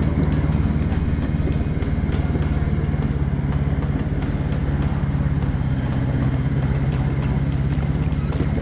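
7¼-inch gauge miniature railway train running, its locomotive's engine droning steadily, with rapid clicking throughout.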